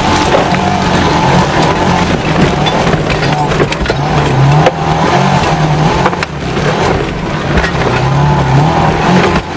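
Saab 96 V4 engine pulling hard under load, revs rising and falling as the car climbs a rough, muddy track, with frequent sharp knocks and bangs as the car jolts over the bumps.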